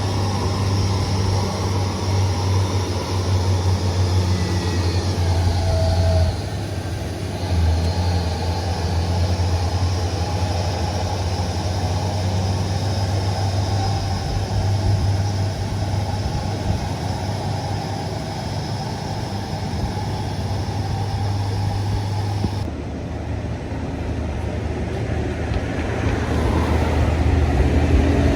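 Road vehicles' engines running steadily with road noise, a low drone throughout. The sound changes abruptly about six and twenty-three seconds in.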